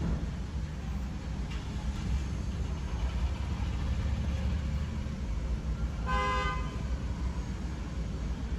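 Maruti Suzuki Ertiga petrol engine idling with a steady low rumble; the engine is missing from a cylinder-4 misfire (code P0304), blamed on a faulty ignition coil. About six seconds in a car horn gives one short toot.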